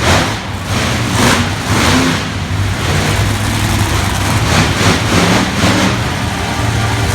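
Engine running loudly, with a steady low drone and a rushing noise that swells and fades every half second or so.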